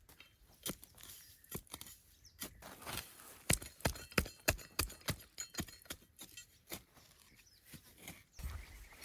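A run of irregular sharp knocks and clicks, densest and loudest around the middle, then thinning out.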